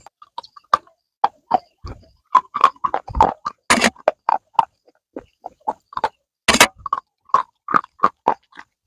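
Close-miked crunching and chewing on a hard, brittle stick: irregular crisp cracks and crackles, with two louder snapping bites near the middle and about two thirds through.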